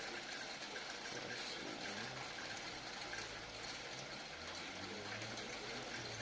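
Steady background hiss with a faint, wavering low hum.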